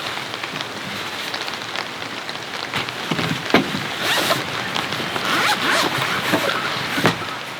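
Rain falling steadily, with a run of close clicks, knocks and rasping handling noises over it, densest about four seconds in and again a little before six seconds.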